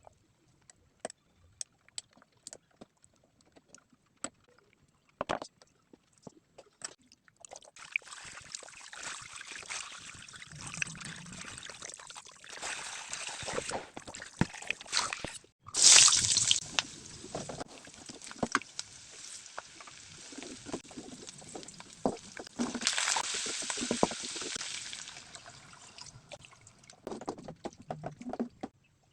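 Water running and sloshing for most of the stretch, after a few seconds of scattered light clicks and knocks; the water cuts out briefly midway and comes back loudest just after.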